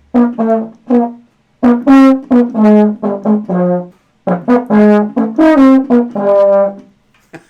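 Baritone horn being play-tested after repair: three short phrases of separate, clear brass notes in its middle-low range, with brief pauses between the phrases.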